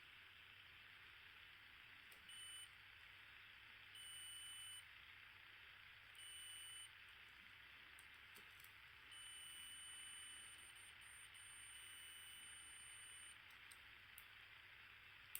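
Digital multimeter continuity beeper sounding in several pure high beeps as the probes touch points on the circuit board: a short one about two seconds in, two of under a second around four and six seconds, then a longer tone of about four seconds from around nine seconds in. Each beep means the two probed points are connected.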